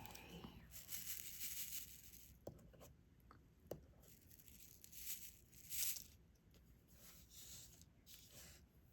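Quiet handwork on a diamond painting canvas: several short spurts of soft rustling, tearing-like hiss from the thin plastic film and adhesive, with a few light ticks from the drills and pen.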